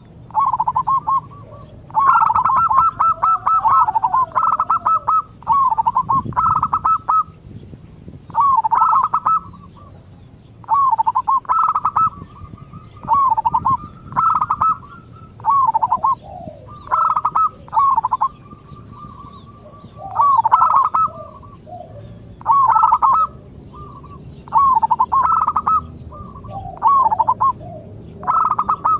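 Zebra dove (perkutut) cooing: a repeated series of short, rapid, bubbling coo phrases, about one every two seconds.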